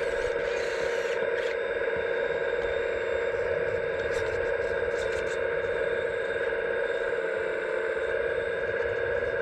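Hydraulic pump of an RC scale excavator running steadily with a constant whine, with a few light clicks and scrapes of the model machine working around the middle.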